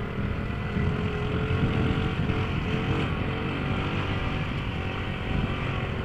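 1997 Honda Z50R pitbike's small 50 cc single-cylinder engine running steadily as it is ridden.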